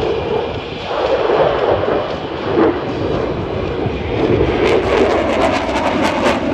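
Loud jet noise from a Eurofighter Typhoon FGR4's twin Eurojet EJ200 turbofans during a display pass, a continuous rushing noise that turns crackly in the last couple of seconds.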